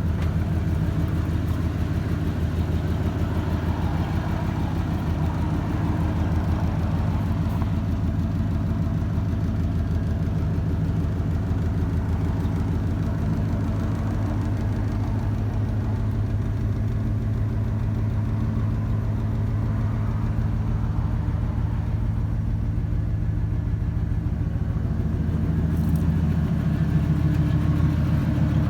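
1979 Ford F-100 pickup's engine idling steadily.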